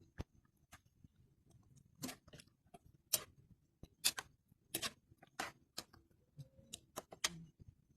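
A string of light, irregular clicks and taps, roughly one a second, with fainter ticks between them.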